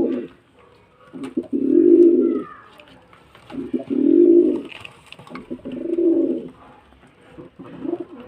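Male domestic pigeon cooing, a low, throaty coo repeated about every two seconds: three full coos and a weaker fourth near the end.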